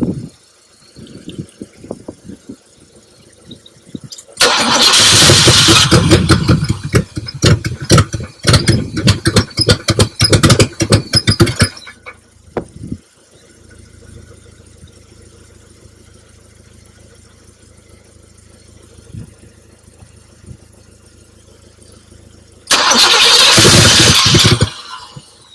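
1972 Buick Riviera's 455 V8 in two loud rough bursts of starting, the first about seven seconds long with irregular stuttering firing, the second about two seconds near the end. A faint low steady hum lies between them. The engine has been sitting for decades, and a weak fuel pump is suspected.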